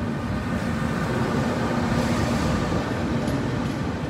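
E402B electric locomotive passing close by along a station platform, then its coaches rolling past: a steady rumble of wheels on rails with a faint hum, swelling to its loudest about two seconds in.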